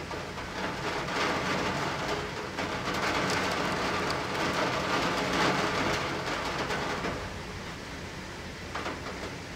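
Steady rain heard through a closed window. Starting about half a second in, a louder rushing swell rises and then fades out again around seven seconds in.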